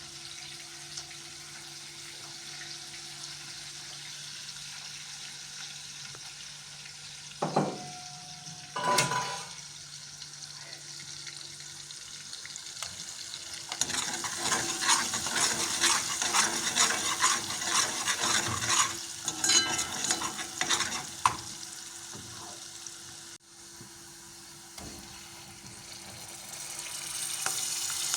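Food frying in a pan. Two knocks come about a third of the way in, then a utensil stirs and scrapes in the pan for several seconds. The sizzle grows louder near the end.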